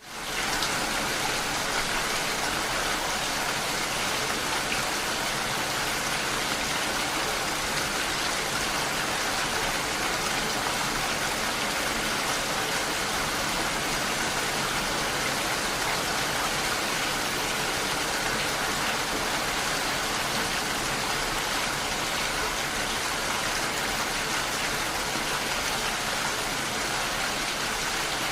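Steady rain falling on window glass, an even hiss of many drops with no separate drips standing out. It fades in quickly just at the start after a moment of silence.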